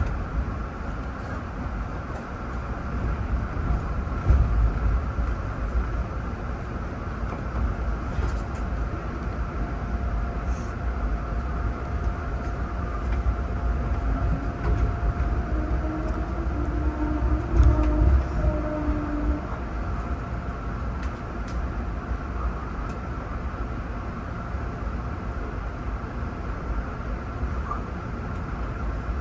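Passenger train running: a steady low rumble with a faint constant whine, a few brief clicks, and some held tones about halfway through.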